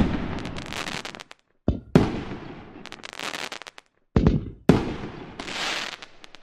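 Aerial fireworks bursting: three volleys of sharp bangs, the first the loudest, each followed by a fading crackle that dies away after about a second.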